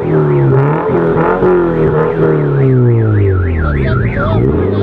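Car engines revving up and down. From about halfway through, a high warbling tone like a siren or alarm joins in, rising and falling about four times a second.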